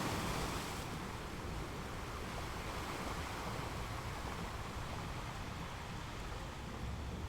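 Ocean surf: the wash of a breaking wave dies away in the first second, then a steady low rush of water.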